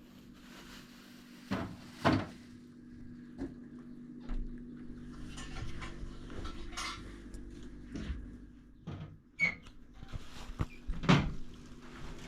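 A series of separate knocks and clatters of household things being handled, with sharp ones about two seconds in and a louder one near the end, over a steady low hum.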